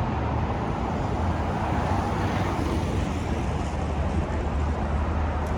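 Steady low rumble of vehicle engines and traffic, mixed with wind noise on the microphone, with a faint click near the end.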